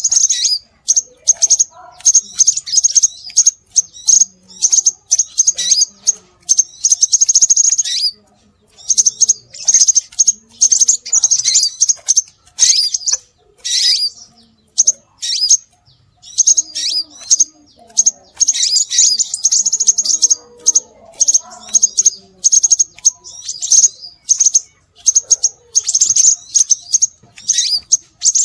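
Scarlet minivet calls: long runs of rapid, high-pitched chirps and twitters, broken by short pauses about 8 and 16 seconds in, played as a bird-lure recording.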